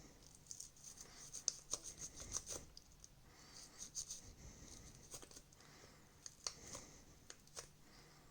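Faint, irregular scratching and scrubbing with small clicks, from plastic TV-remote parts being cleaned by hand.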